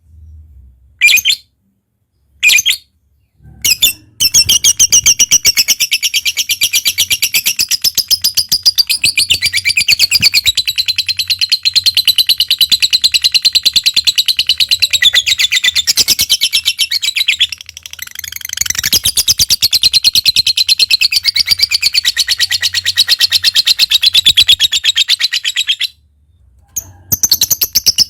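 Lovebird's long ngekek chatter: a very rapid, continuous high-pitched trill kept up for over twenty seconds, with one brief dip partway through. A few short separate calls come before it starts and after it stops.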